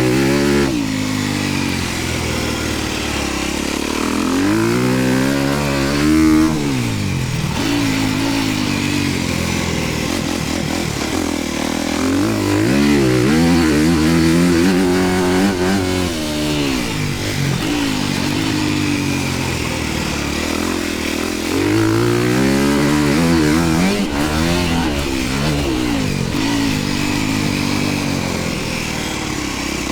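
Dirt bike engine riding a motocross track, revving up and down over and over as the throttle opens and closes, its pitch climbing and dropping every few seconds.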